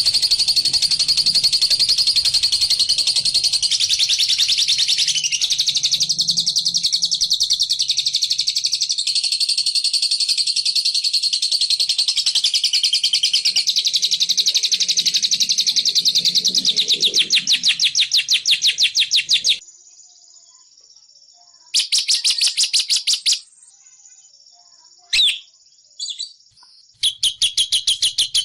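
A bird's rapid chattering call: a fast, unbroken train of high repeated notes that stops about two-thirds of the way through, followed by a short burst of the same chatter, two brief single calls, and the chatter starting again near the end. This is the 'ngekek' chatter used as a lure call to draw in the bird.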